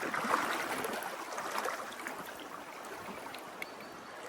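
Fast, murky river water rushing over rocks, a steady wash of noise that is a little louder in the first second or so.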